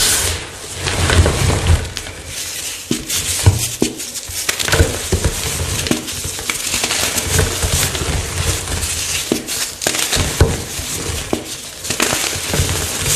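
Fresh chalk blocks being crushed, a dense, irregular run of crunches and sharp cracks with dull thuds underneath.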